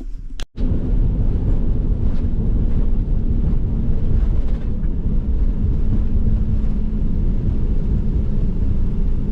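Steady low rumble of a vehicle on the move, engine and road noise with a faint steady hum, starting abruptly about half a second in.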